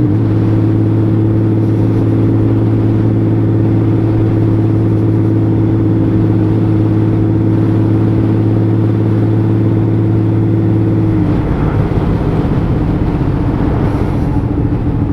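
Honda Valkyrie 1500's flat-six engine running steadily at an even cruising note under way. About eleven seconds in the note drops a little and turns rougher, as the throttle changes.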